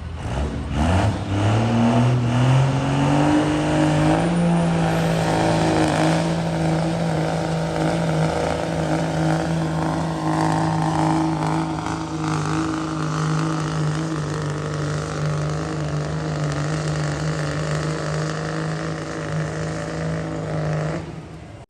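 Diesel pickup in the 2.5-inch turbo class making a sled pull: the engine climbs in revs over the first few seconds, then holds steady at high revs under load for the rest of the pull, and backs off near the end.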